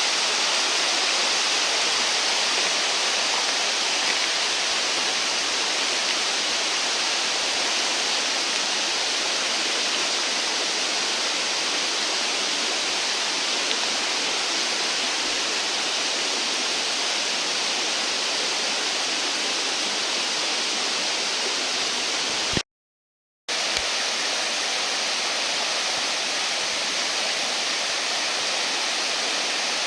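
Steady rushing of flowing water from a stream, broken by a brief cut to silence about three-quarters of the way through.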